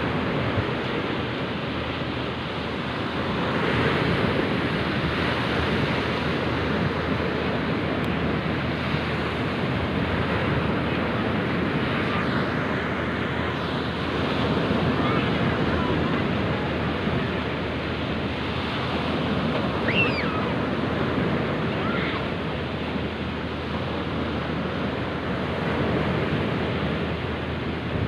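Sea waves and surf washing steadily, swelling and easing every few seconds, with wind buffeting the microphone.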